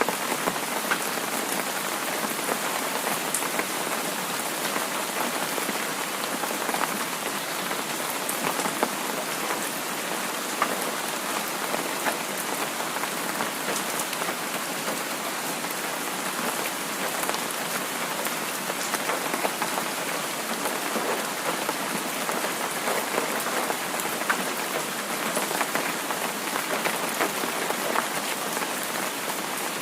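Heavy rain falling steadily: a dense, even hiss with scattered sharp ticks of single drops.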